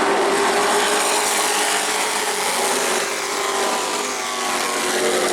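Racing pickup trucks' engines running at high revs as the field circles the track, a steady loud drone that eases slightly about three to four seconds in.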